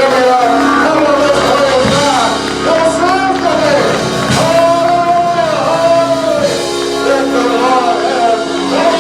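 Gospel singing with instrumental accompaniment: voices holding long notes with vibrato over steady sustained keyboard chords.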